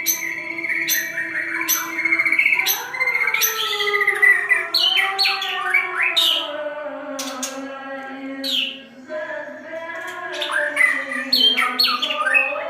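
Songbird singing: quick chirps, sharp high notes and rapid trills in repeated phrases, over a steady droning tone underneath that slowly drifts in pitch.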